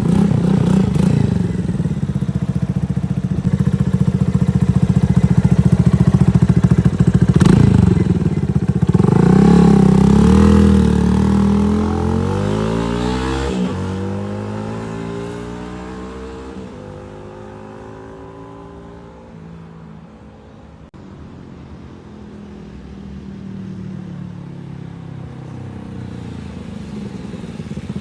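Yamaha Fazer 250's single-cylinder engine running through a stainless Mexx sport exhaust, with a near-stock exhaust note. It runs steadily, then accelerates with rising pitch about nine seconds in. The sound then fades away and grows louder again near the end as the bike returns.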